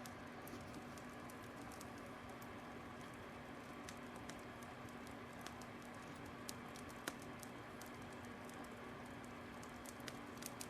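Fire crackling: scattered, irregular pops and snaps over a steady hiss, the sharpest pop about seven seconds in.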